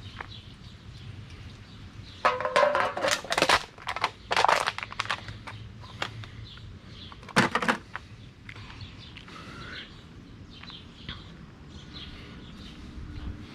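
Litter being grabbed and handled during an alley cleanup: three bursts of rustling and clattering, about two, four and seven seconds in. Faint bird chirps follow later.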